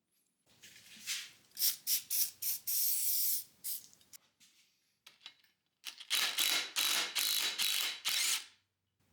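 Repeated hissing bursts of spray: several short ones, then a longer one about 3 seconds in, and a long burst of about two and a half seconds near the end with a faint whistle in it.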